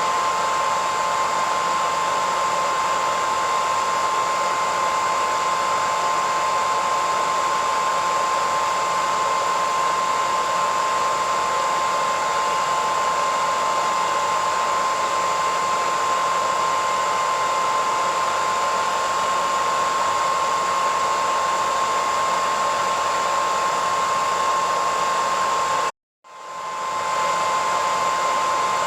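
Hair dryer running steadily: a constant rush of air with a steady high whine. About 26 seconds in it cuts out completely for about half a second, then fades back up.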